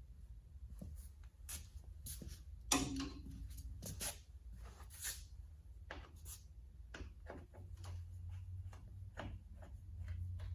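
Scattered clicks and taps of hand tools and metal parts being handled during tractor disassembly, with one louder metallic clank that rings briefly about three seconds in, over a low steady hum.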